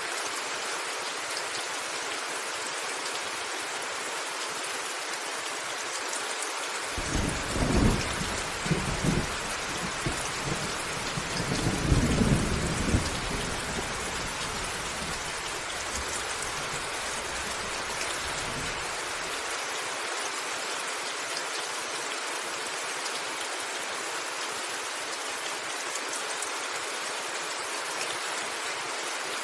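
Heavy rain falling steadily on a rooftop, with a long rumble of thunder starting about a quarter of the way in, swelling twice and dying away after about twelve seconds.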